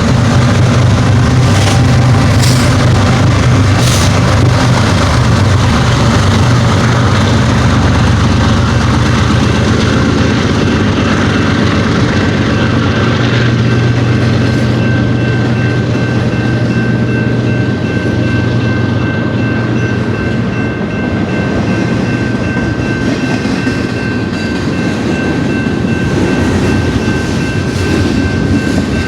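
Double-stack container train rolling past on the main line: wheels clicking over the rail joints and a heavy diesel rumble that fades over the first half. Two thin, steady high ringing tones join about halfway through and hold.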